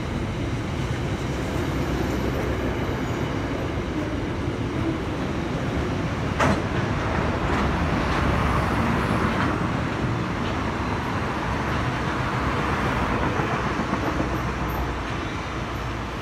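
Freight train hauled by NR-class diesel locomotives passing: a steady heavy rumble of engines and wheels on the rails, with one sharp click about six and a half seconds in.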